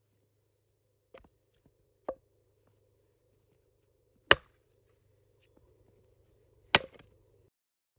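Four sharp chopping strikes, spaced one to two and a half seconds apart, the last two much the loudest.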